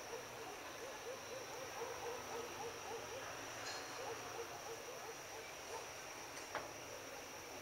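Crickets trilling steadily on one high pitch, with a run of short, evenly repeated rising-and-falling calls from another animal lower down over the first half. There is a single sharp click near the end.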